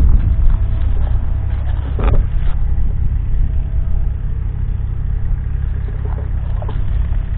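Scania R520's 16.4-litre V8 diesel engine idling with a steady low rumble; a short knock sounds about two seconds in.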